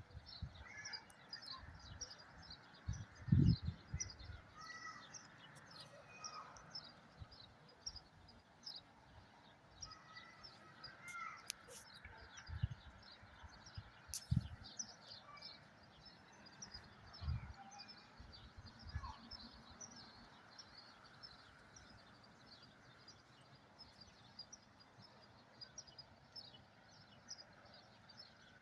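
Many small birds chirping continuously in quick, high, short notes, with a few scattered lower calls and several brief dull bumps.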